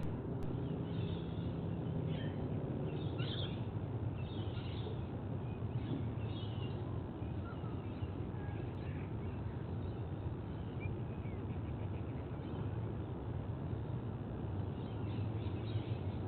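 Short, scattered bird calls over a steady low outdoor rumble.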